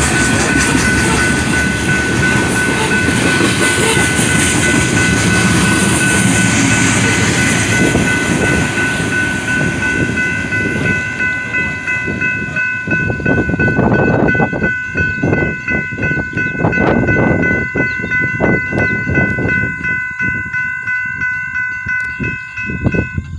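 A train passing close by the crossing: a loud, dense rumble for the first half, then the wheels clacking over the rail joints in an uneven rhythm as the cars go by. A steady high ringing tone sounds over it and cuts off at the end.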